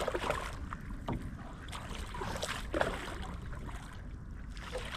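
Canoe paddle strokes in the water, a few short splashes, over a low rumble of wind on the microphone.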